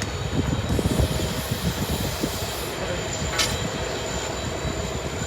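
Train running along the track: a dense, uneven rumble with a thin steady high whine over it, and one sharp click a little past halfway.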